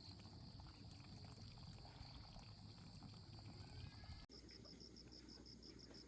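Faint insects: a steady high drone, then an abrupt cut about four seconds in to a rapid, regular pulsing chirp like a cricket.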